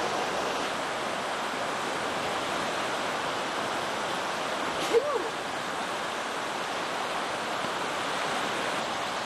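Fast-flowing river running steadily, a loud continuous gurgling rush of water. About halfway through, a single brief squeak cuts in over it.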